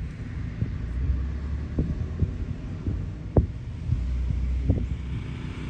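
Generators running: a steady low engine hum with a throbbing pulse, with a few short knocks over it.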